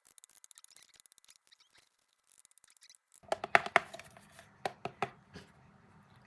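Close-miked handling sounds: faint, rapid ticking for about three seconds, then a run of sharp clicks and taps a little after the midpoint.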